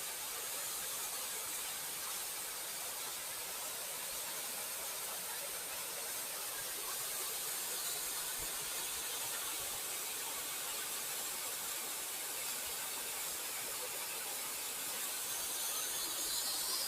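Steady high-pitched hiss, with a faint brief squeal a little before the end.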